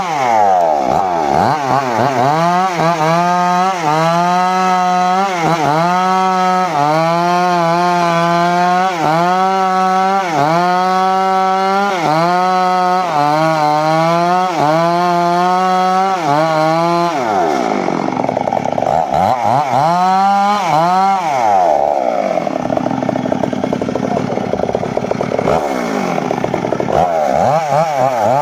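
Homemade circular saw cutting teak, a loud pitched whine that sags and recovers about once every second and a bit as the blade loads up in the cut. After a deeper sag about two-thirds through, it turns to a rougher, noisier sawing.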